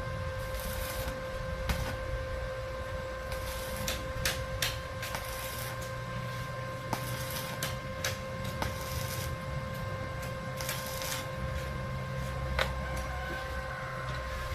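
Arc welding on steel framing: the arc crackles and hisses in short bursts, with scattered sharp clicks. Under it run a steady high hum and a low rumble.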